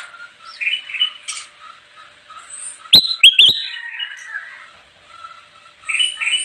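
Kutilang emas, a bulbul, calling in short, sharp chirps and brief trills, with a loud quick run of rising notes about three seconds in and another burst of chirps near the end.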